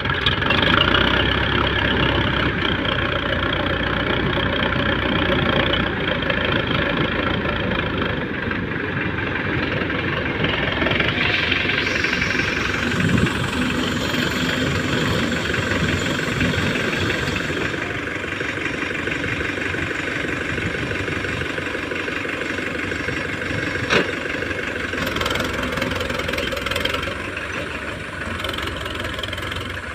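Diesel engine of heavy farm or earth-moving machinery running steadily, with one sharp knock about three quarters of the way through.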